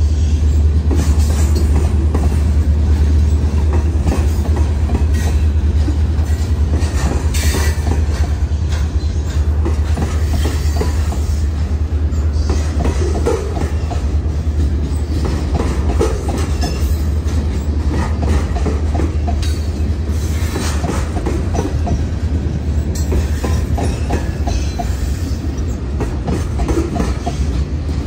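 CSX open-top hopper cars of a freight train rolling past close by: a steady low rumble with the repeated clickety-clack of wheels over the rail joints.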